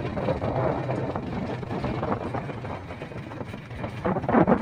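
A vehicle's engine running steadily with road noise while driving.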